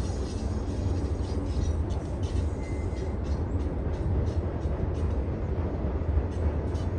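BNSF freight train running on the Cajon Pass grade: a steady low rumble with scattered sharp ticks over it.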